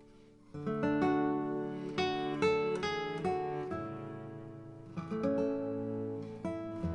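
Background music of acoustic guitar, strummed and picked chords ringing out.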